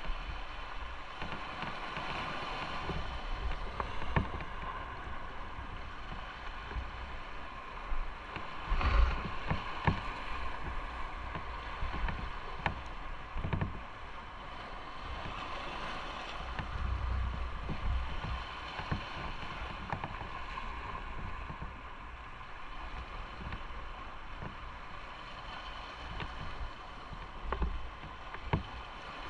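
Motorcycle running at road speed with wind rushing over the microphone, broken by a few low thumps, the loudest about nine seconds in.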